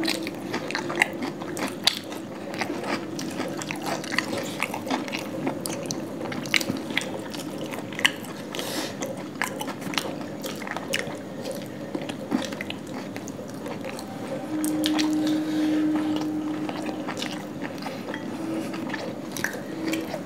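Two people chewing and biting into chicken curry and paratha eaten by hand, with many small wet mouth clicks and smacks. A low steady hum lasts a couple of seconds around the middle.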